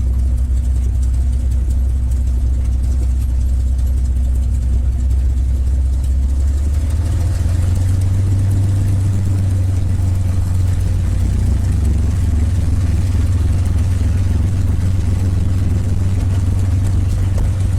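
North American P-51 Mustang's Merlin V-12 engine running steadily at low taxi power. About seven seconds in, its low drone steps up to a slightly higher steady pitch.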